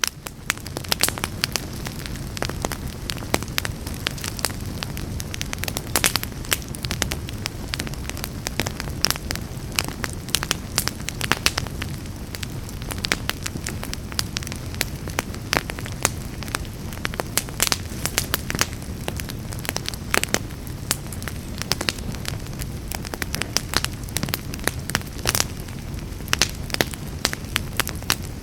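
Fire burning in a fireplace, crackling steadily, with frequent sharp irregular pops over a low rumble of flame.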